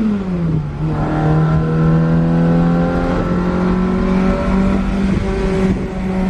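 Fiat 127 Moretti coupé's four-cylinder engine accelerating: the revs fall sharply at the start, then climb slowly and steadily.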